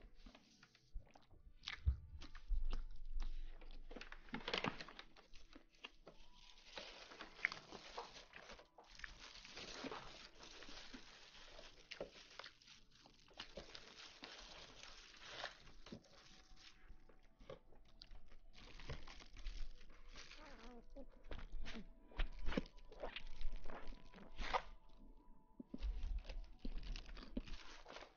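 Close-miked ASMR rustling and crunching: a soft, irregular stream of crackles with scattered sharper clicks.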